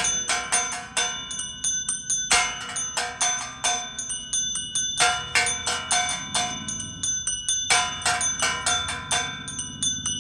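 Cathedral tower bells rung in a rapid peal for the storms. Several bells of different pitch are struck a few times a second, with a heavier full strike about every two and a half seconds.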